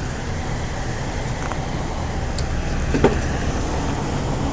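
Steady road traffic noise, a low rumble of passing vehicles, with one brief sharp sound about three seconds in.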